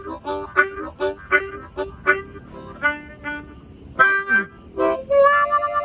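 Blues harmonica fill: a string of short, choppy notes, then a long held note with a fast, even warble starting about five seconds in.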